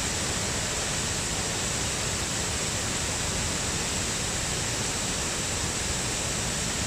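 Steady roar of a waterfall or stream in full spate, swollen by heavy rain; the flow is very strong.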